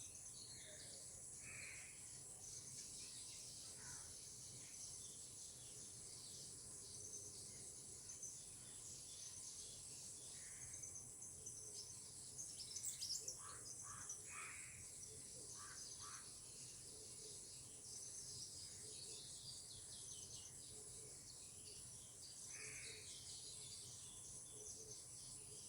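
Insects, crickets or cicadas, trilling in a faint, steady, high-pitched chorus, with scattered short bird calls over it and a brief louder burst of calls about halfway through.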